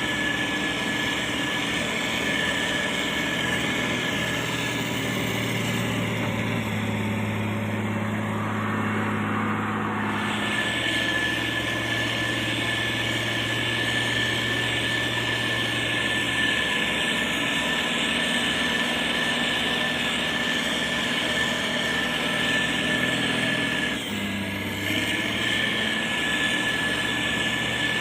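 Heavy road-construction machinery running, with a steady low diesel engine note and a steady high whine above it. The note shifts briefly about six to ten seconds in and again near the end.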